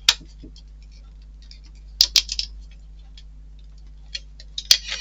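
Small clicks and taps of tiny model-kit parts being handled and forced into place, with sharper clicks just after the start, twice about two seconds in, and once near the end. A faint steady hum runs underneath.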